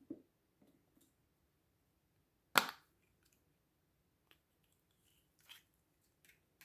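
Slime being handled and worked, with a few faint soft clicks and one loud, sharp snap or pop about two and a half seconds in.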